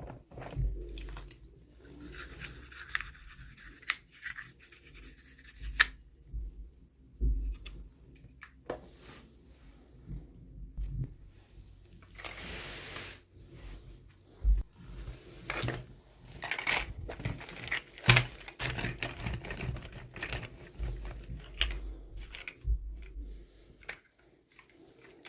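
Hands unwrapping toy packaging: irregular rustling, scratching and tearing of the wrapper, with scattered sharp clicks and knocks.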